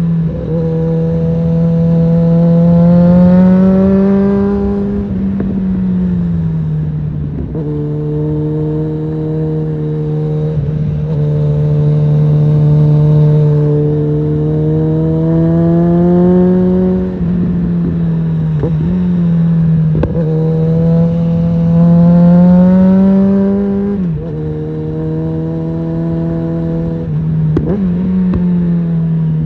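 Suzuki GSF650 Bandit's inline-four engine with an aftermarket Storm exhaust running under riding load. Its pitch climbs slowly under throttle and falls back three times, with a few short clicks.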